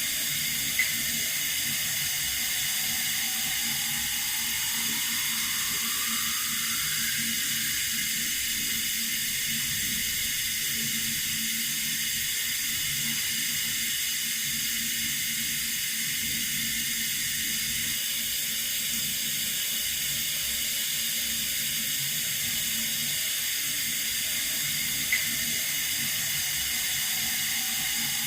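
Water running steadily from a tap, an even hiss. A faint tone rises slowly over a few seconds early on, and a tiny click comes shortly after the start and again near the end.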